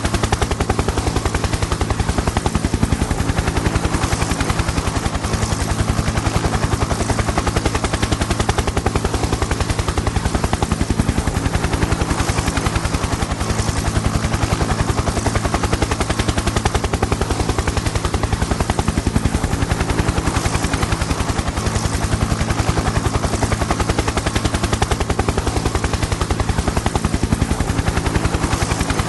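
Helicopter in flight: the rotor blades chop in a rapid, even beat over a steady low engine hum, unchanging throughout.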